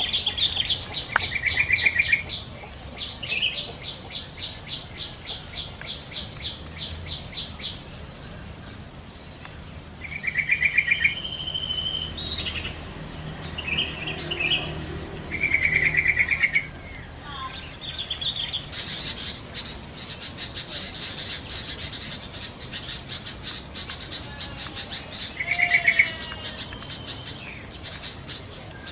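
Yellow-vented bulbuls (trucukan) calling in short, bubbly, chattering phrases every few seconds. Rapid high ticking trills run beneath them and grow louder about two-thirds of the way through.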